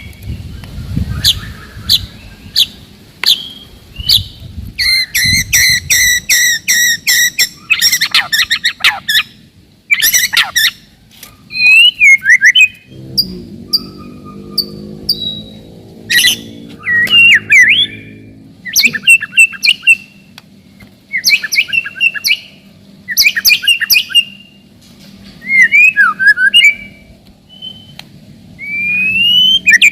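White-rumped shama singing: loud, sharp phrases of rapid repeated notes, rattling trills and quick whistled glides in close succession. A low steady hum sits under the song from about halfway through.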